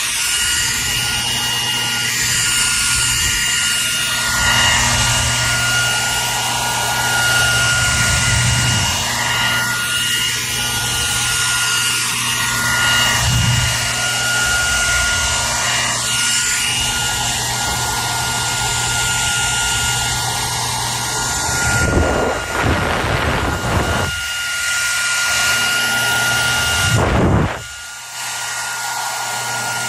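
Hair dryer running continuously: a steady rushing blow of air with an even motor whine and low hum, its sound briefly shifting twice near the end.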